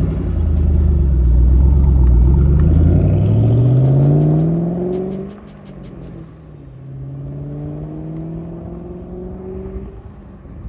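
2013 Ford Mustang Shelby GT500's supercharged 5.8-litre V8 pulling hard, loud and low at first, then rising steadily in pitch. About five seconds in the note drops sharply and grows quieter, then climbs again for a few seconds.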